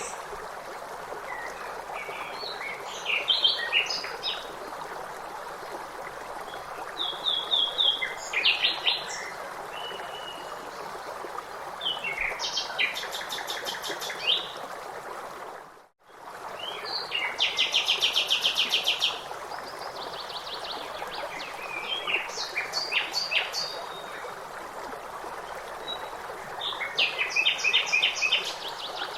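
Songbirds singing and calling over the steady rush of a stream. Rapid trilled phrases come several times, and the whole sound dips out briefly about halfway through before resuming.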